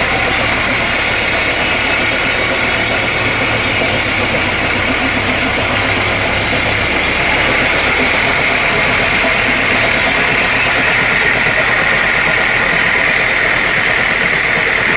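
Sawmill machinery running steadily, a loud, even engine-like drone with no pauses; the highest hiss drops away about halfway through.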